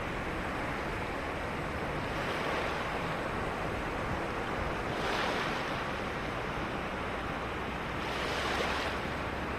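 Ocean waves washing onto a beach in a steady rush of surf, with three breakers swelling louder about three seconds apart.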